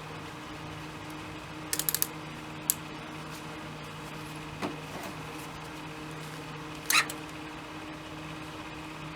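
Steady low electrical hum, broken by a quick run of sharp metallic clicks about two seconds in, a single click shortly after, a soft knock around the middle and a louder clank near the end.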